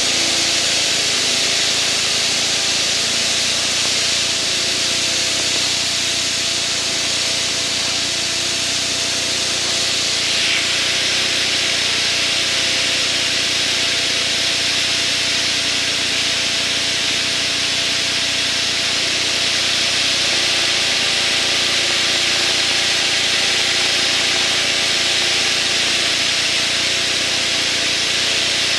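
Van's RV single-engine light plane in flight, heard from inside the cockpit: a steady engine and propeller drone under loud wind hiss.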